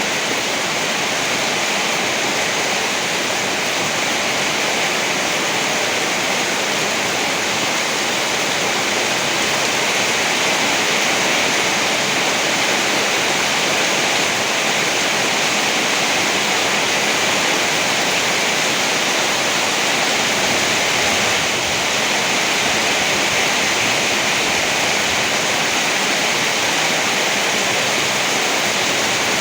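Steady heavy rain: an even, unbroken hiss with no thunder claps.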